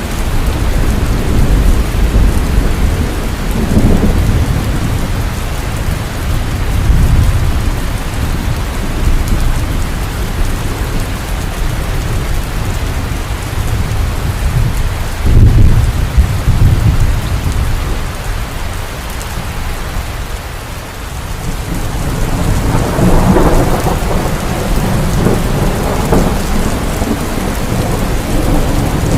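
Heavy rain falling steadily, with thunder rolling low several times; the loudest peal comes about halfway through.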